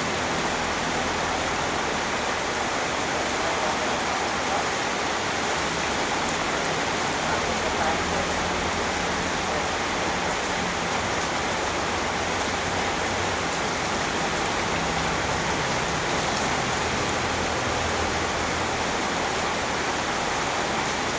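Heavy rain pouring steadily, a dense even hiss of drops hitting the ground and surfaces.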